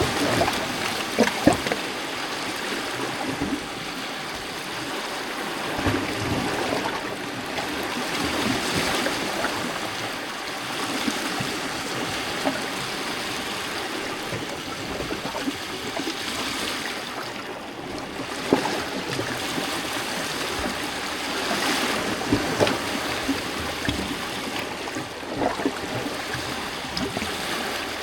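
Small lake waves lapping and splashing against shoreline rocks, a continuous gurgling wash that swells and eases every few seconds, with occasional sharper splashes.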